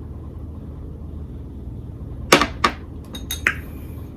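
Two sharp knocks a little past two seconds in, then a few lighter clicks with a brief glassy ring: a shot glass being set down and handled on a tabletop, over a steady low hum.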